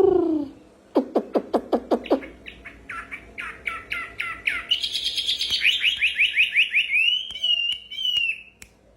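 Songbird singing a long, varied phrase. It opens with the end of a loud falling note, then a few low downward-swooping notes, then quick repeated descending chirps that climb higher and speed up, and finally a sustained warbling whistle.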